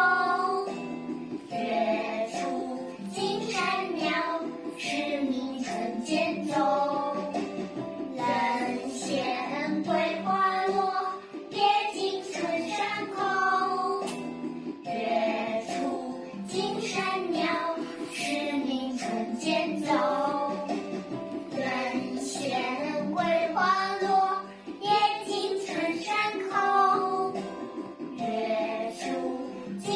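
A child's voice singing a melody in phrases, over steady instrumental accompaniment.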